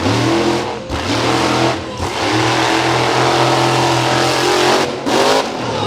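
Monster truck engine revving hard and held at high revs, with two brief lifts off the throttle in the first two seconds, then cut off sharply about five seconds in.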